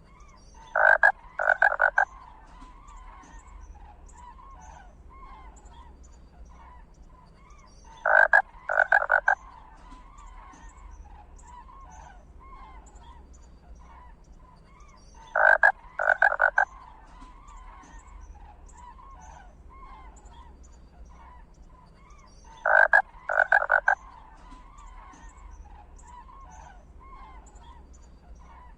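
An animal calling: a group of two or three short loud notes, repeated at even intervals about every seven seconds, four times, over faint background chatter.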